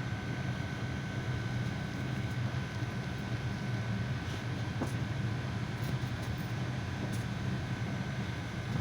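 Cabin noise inside a GAZelle NEXT minibus: a steady low engine and road rumble, with a faint constant whine above it.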